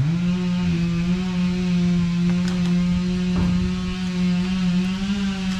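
An engine that has just sped up runs steadily at a high, even speed, a constant pitched drone with a couple of faint knocks in the middle.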